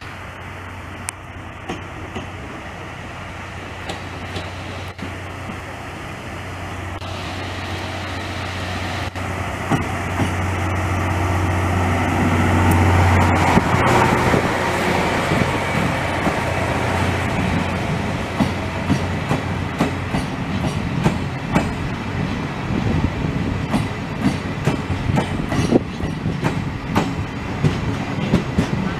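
SL Banetsu Monogatari passenger train rolling slowly into a station and past at close range. A low hum builds to its loudest about halfway as the leading car passes, then the wheels clack repeatedly over rail joints as the coaches go by.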